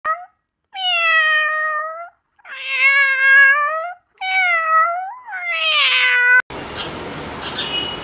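Domestic cat meowing: a brief clipped meow at the very start, then three long drawn-out meows, the third with a short rise and fall in pitch. About six seconds in the meowing cuts off abruptly, giving way to a steady outdoor hiss with faint ticks and chirps.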